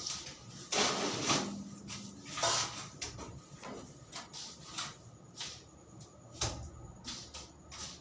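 Irregular scraping and knocking from manual construction work: two longer scrapes about a second and two and a half seconds in, scattered light knocks, and a dull thump near the end.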